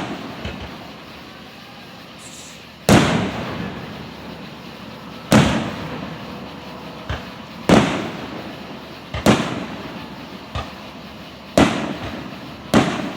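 Aerial firework shells bursting in a display: about seven loud bangs a second or two apart, with a few smaller pops between them, each bang trailing off in a fading echo.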